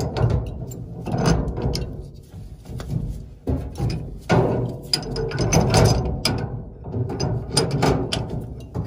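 Ratchet wrench clicking in uneven bursts, with sharp metal knocks between, as tight fittings are worked loose.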